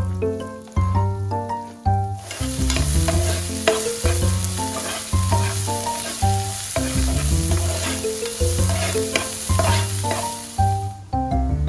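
Food sizzling in hot oil on a pan, starting about two seconds in and cutting off near the end, over background music.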